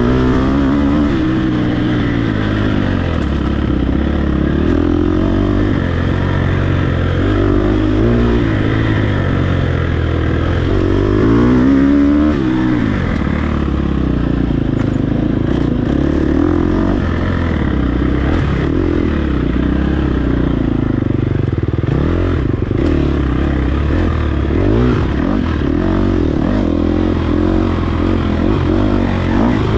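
Dirt bike engine being ridden hard off-road, its revs rising and falling over and over as the rider works the throttle and gears.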